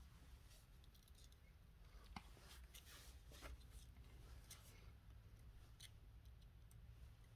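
Faint, scattered clicks and snips of wire cutters working copper electrical wire, cutting a ground wire in half, over a low steady room hum.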